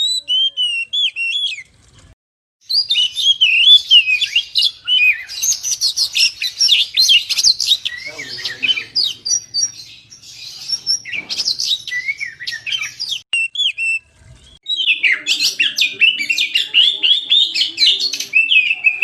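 Oriental magpie-robin (kacer) singing a fast, varied song of whistles and chattering phrases, with two short breaks about two and fourteen seconds in.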